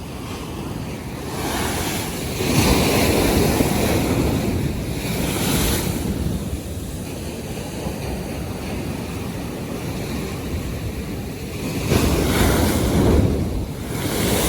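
North Sea waves breaking and washing in, swelling loudest twice: a few seconds in and again near the end. Wind is buffeting the microphone.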